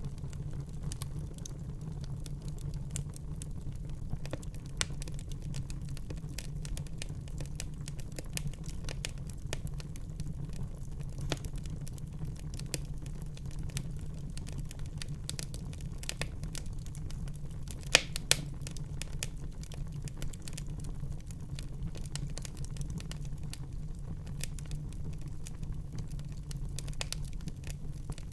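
Wood fire burning in a fireplace: a steady low rumble of flames with frequent small crackles, and two louder pops in quick succession a little past the middle.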